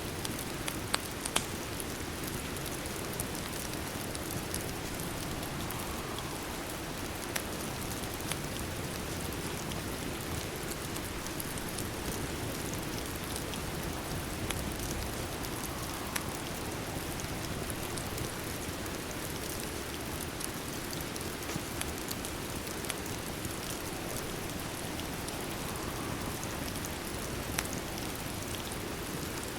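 Steady rain: an even hiss with scattered sharp ticks and clicks.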